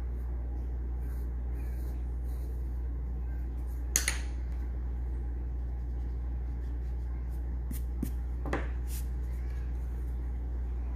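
Graphite pencil scratching on paper in short, faint strokes over a steady low hum. A sharp click sounds about four seconds in, and a smaller one comes near eight and a half seconds.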